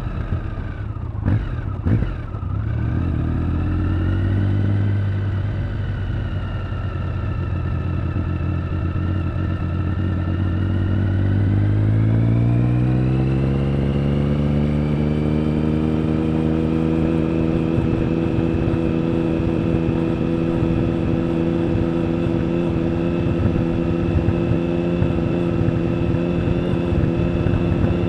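Triumph Speed Triple 1050's three-cylinder engine and exhaust under way on the road. A couple of sharp cracks come about a second or two in. The revs then climb as the bike accelerates about halfway through, and the note holds steady at the higher pitch.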